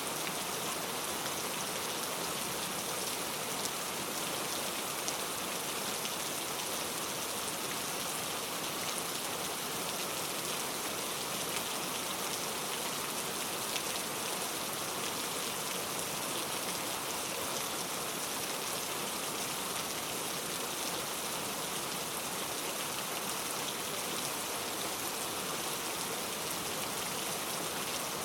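Steady rain falling on a surface: an even, unbroken hiss of many fine drops, with no thunder.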